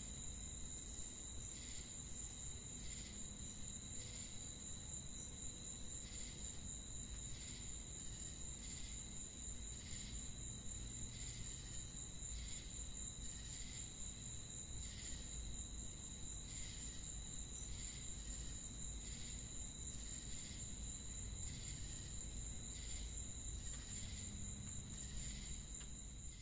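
A steady, high-pitched chorus of insects, with a short chirp repeating a little more than once a second over it.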